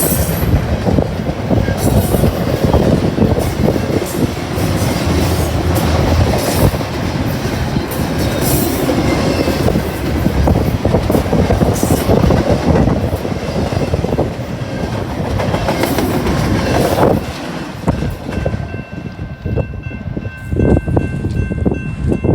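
Long freight train of boxcars rolling past, wheels clicking steadily over the rail joints under a continuous rumble. About seventeen seconds in the rumble drops away as the cars pass, leaving faint steady high tones.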